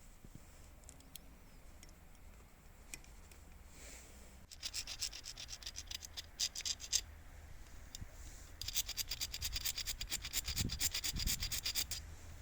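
Rapid back-and-forth scrubbing strokes worked by hand, several a second, in two spells: one starting about four and a half seconds in and a longer one near the end, with a dull knock during the second spell.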